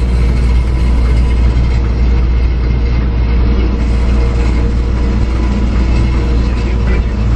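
Trackless road train running, heard from on board: a steady, loud low engine and road rumble that holds without a break.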